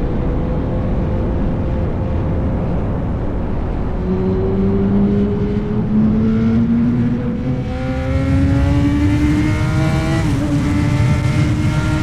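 Yamaha R1's inline-four engine through an SC-Project aftermarket exhaust, pulling under way with its note rising slowly as the bike gains speed. The pitch dips briefly about ten seconds in, then holds steady.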